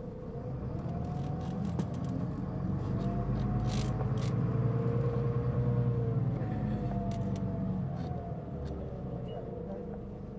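Mitsubishi Fuso Aerostar LKG-MP37FK city bus running under acceleration. The engine rumble builds over the first few seconds and eases off after about six seconds. Over it runs a whine whose pitch rises and falls, the strong abnormal noise this bus is known for.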